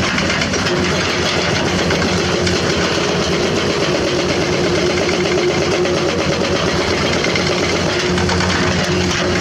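Diesel engine of a hydraulic excavator running steadily, its note shifting slightly in the middle as the machine works.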